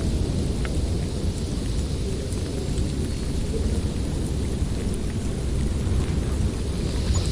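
Snowstorm wind blowing steadily through a forest: a constant low rushing noise with no gusts or pauses.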